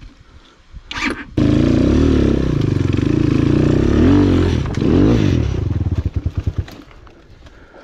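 Enduro motorcycle engine running loud and close, its pitch rising and falling as the throttle is worked. It dips briefly, then slows to separate firing beats and fades out about six and a half seconds in.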